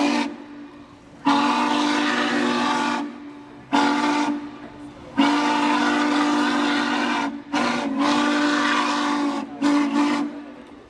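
Norfolk & Western 611's steam whistle blown in a string of blasts, mostly long with a few short, as one deep chord of several notes, with short gaps between.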